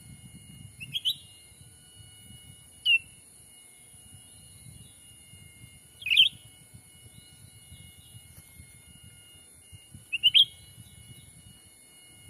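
Cucak ranting bird calls used as a trapping lure: four short, sharp chirps, each dropping in pitch, spaced a few seconds apart. The first and last come as quick doubles. Behind them runs a steady high-pitched drone.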